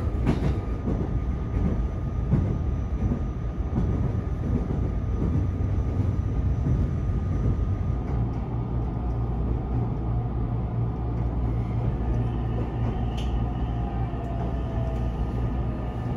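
Cabin sound of a JR Kure Line commuter train running on the track, a rumble with irregular rattles and knocks. About halfway through it settles into a steadier low hum, and a faint falling whine comes in near the end as the train slows into the station.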